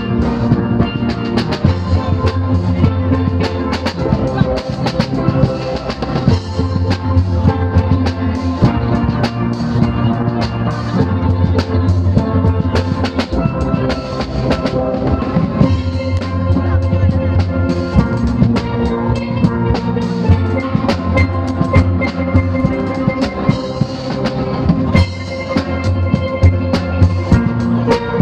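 Steel pan band playing: pans carrying the melody over a drum kit and a bass pulse, with a quick, steady beat.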